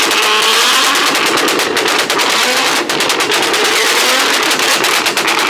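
High-performance car engine revving hard, its pitch rising and falling, with rapid crackling and popping from the exhaust.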